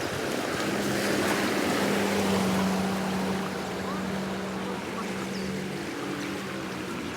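A motor running with a steady hum over a rushing noise of water and wind. The hum is loudest in the first half and fades out about six seconds in.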